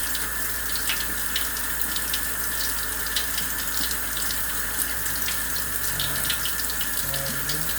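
Kitchen tap running steadily into a sink, with scattered light ticks.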